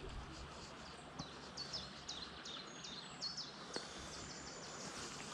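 A songbird singing a run of short, repeated high notes, about three a second, over the faint steady sound of a shallow stream running.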